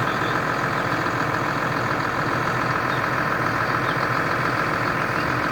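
Large diesel engine running at a steady idle, with no change in speed.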